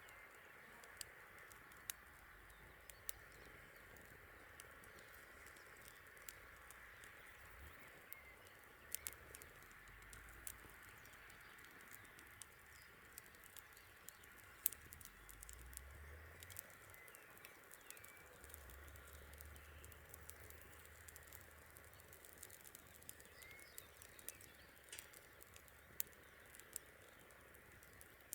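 Campfire crackling faintly, with irregular sharp pops and snaps over a steady soft hiss.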